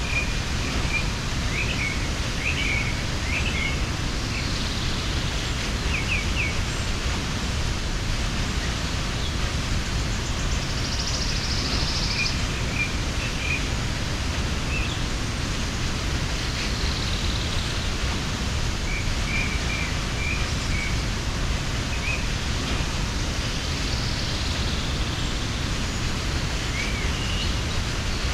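Steady rush of a waterfall, with small birds chirping in short scattered bursts over it.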